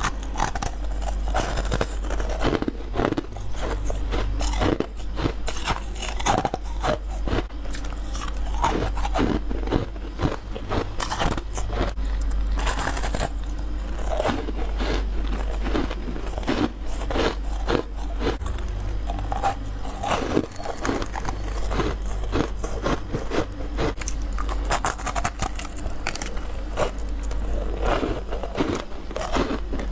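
Close-up crunching bites into freezer frost and ice, with chewing: a dense, irregular run of sharp crunches over a steady low hum.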